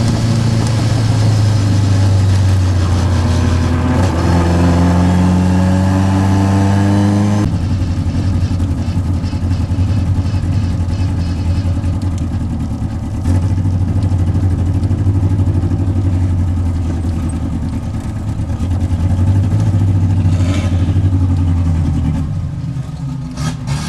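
Vintage Triumph race car's engine heard from inside the car, pulling with rising pitch for a few seconds. About seven seconds in it drops abruptly to a lighter, lower-load note. It keeps running with some swells and eases off near the end.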